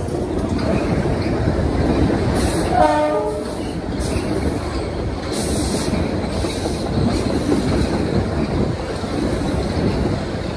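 Metro-North commuter train passing close below, with a steady rumble of wheels clacking on the rails. About three seconds in, a brief falling tone cuts through.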